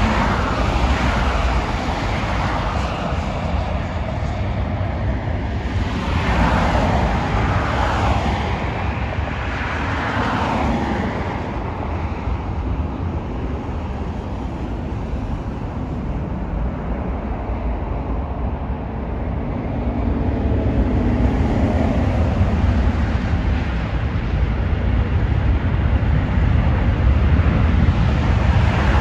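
Steady low rumble of jet airliner engines, growing louder over the last third.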